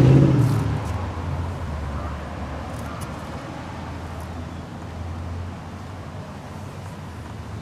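A motor vehicle's engine running as a steady low hum, loudest at the start and fading within the first second or two to a quieter level.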